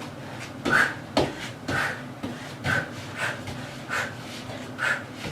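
A person breathing out hard and sharply in a steady rhythm, about two breaths a second, one with each punch, knee and kick of a kickboxing combination.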